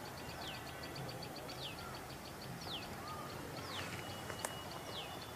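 A bird repeating a short, high, falling whistled call about once a second. For the first few seconds a rapid series of faint high ticks runs behind it, and there is a single sharp click about four and a half seconds in.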